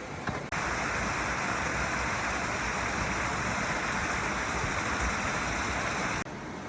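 Stream water rushing and splashing over rocks in a steady, even rush. It starts suddenly about half a second in and cuts off just as suddenly shortly before the end, with quieter surroundings on either side.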